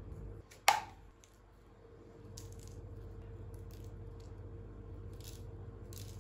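Objects being handled: one sharp, ringing clink about 0.7 s in, then a few light clicks and taps, over a steady low hum.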